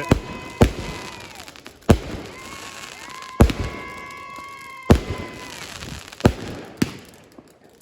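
Fireworks going off: six sharp bangs, mostly about a second and a half apart, with high, steady whistles sounding between them that drop in pitch as they end.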